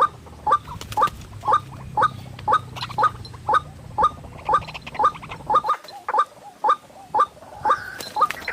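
White-breasted waterhen calling: a short rising note repeated steadily, about twice a second.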